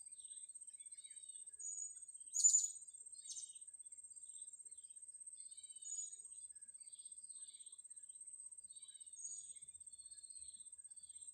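Small birds chirping: scattered short, high calls, the loudest a sharp call about two and a half seconds in with another just after, over a steady thin high whine.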